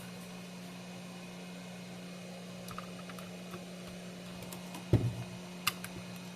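Steady low hum of running workbench equipment, with small ticks of parts being handled, a loud knock about five seconds in and a sharp click shortly after.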